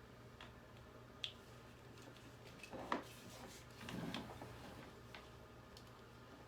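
Faint handling noise from a plug with bent prongs being forced against an outlet: a couple of light sharp clicks and a short scraping rustle in the middle, over a low steady hum.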